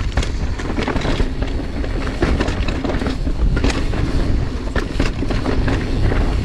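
Mountain bike rolling fast over a rough dirt trail, with a steady rumble and constant irregular rattling and knocking from the bike over the bumps.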